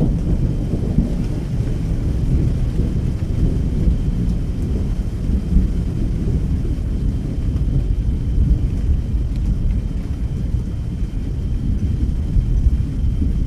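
Thunderstorm: a continuous low rumble of thunder rolling on without a break, with rain in the background.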